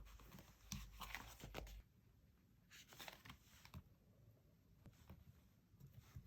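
Faint rustling and crinkling of paper and sticker sheets being handled and peeled, in two short bursts of small crackly ticks.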